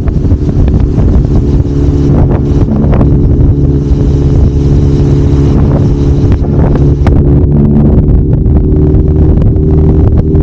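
Kawasaki Zephyr750's air-cooled inline-four engine running at a steady speed under way, with wind noise on the microphone.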